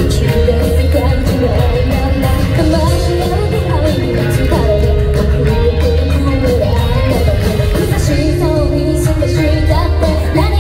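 Live J-rock band playing a song, with a female lead singer over electric guitar, bass, drums and keyboard.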